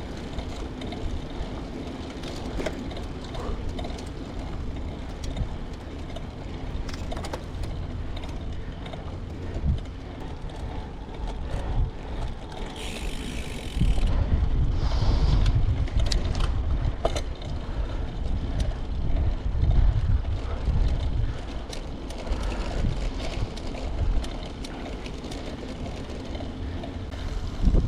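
Wind rumbling on the microphone during a ride, with scattered mechanical rattles and clicks. The rumble swells louder about 14 seconds in and again around 20 seconds.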